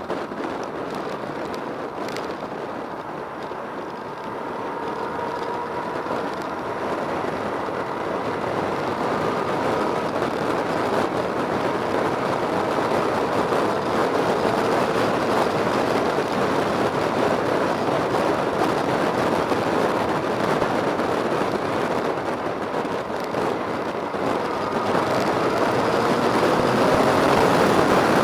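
A motor vehicle running, with a steady rush of noise and faint engine tones that slide up and down; it grows gradually louder toward the end.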